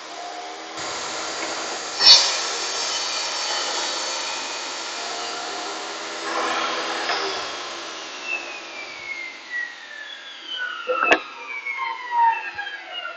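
A power tool's electric motor runs steadily with a whine, then is switched off and winds down, its pitch falling over several seconds. There is a sharp click about two seconds in and another near the end.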